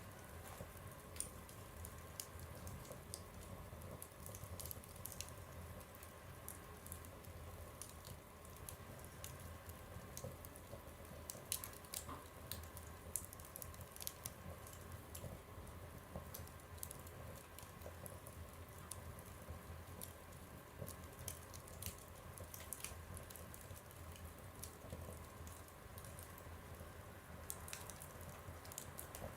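Wood fire crackling in a stove: irregular small pops and snaps, a few of them louder, over a faint steady background.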